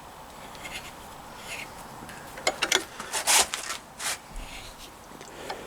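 Workbench handling noise while parts are fitted to a Triumph T140 crankshaft: a few short scraping, rubbing sounds of metal parts and tools, the loudest about three and a half seconds in.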